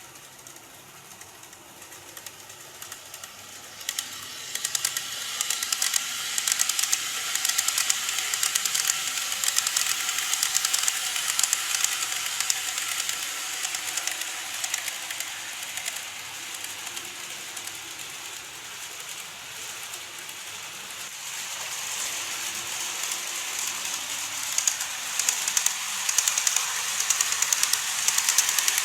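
Model train running on its track: a fast, fine clicking of small wheels over the rail joints with a hissing motor sound. It grows louder about four seconds in, eases off midway and builds again near the end as the train comes past.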